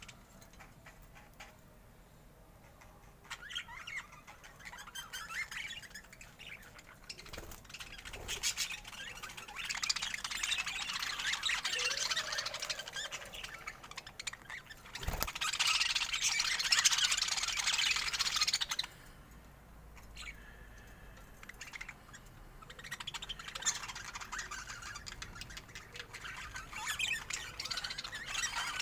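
Budgerigars chattering and warbling: fast, scratchy twittering and chirps that come in spells several seconds long, with quieter gaps between them and a sharp click about halfway through.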